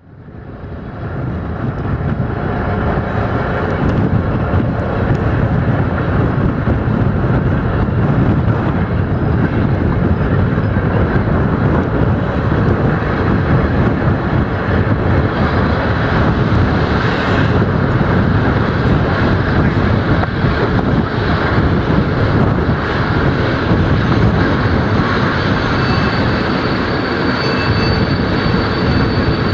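Running noise heard from inside a moving passenger train: a steady, loud low rumble of the wheels on the rails, fading in at the start. A faint high whine comes in near the end.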